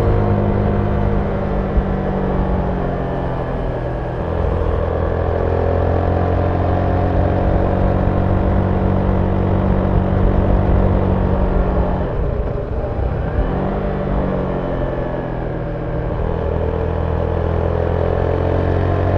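Zontes 310V motorcycle's single-cylinder engine through its stock exhaust, heard on board while riding. The engine note rises and falls with the throttle, drops briefly about twelve seconds in, then climbs again.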